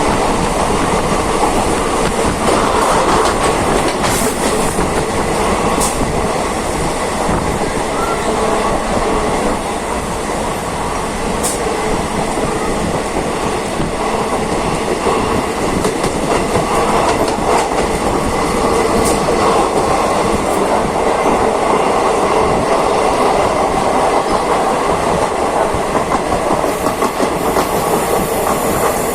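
Train running along the track: a steady, loud noise of wheels on rails, with a few sharp clicks scattered through it.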